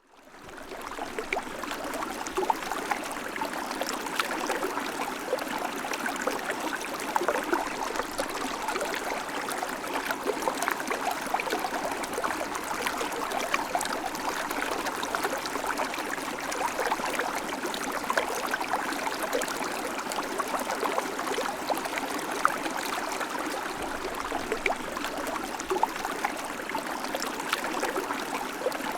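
River water flowing, a steady rushing full of small splashes and gurgles, fading in over the first second.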